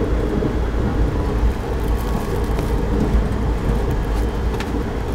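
Passenger train running, heard from inside a coach: a steady low rumble of the moving train with a few faint clicks.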